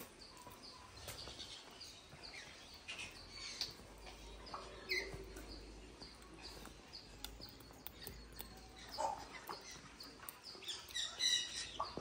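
Small aviary birds chirping and tweeting, many short high calls scattered throughout, with a few louder calls near the end.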